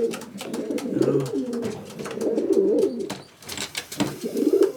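Racing pigeons cooing, one rolling coo after another, with scattered light clicks.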